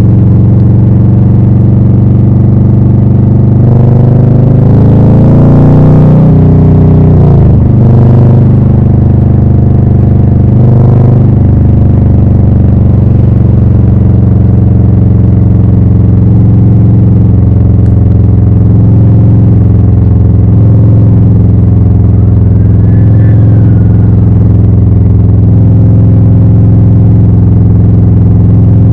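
Harley-Davidson Low Rider S V-twin engine running through Rinehart slip-on mufflers. The revs rise and fall a few times between about four and eight seconds in and again briefly near eleven seconds, and the engine otherwise holds a steady note.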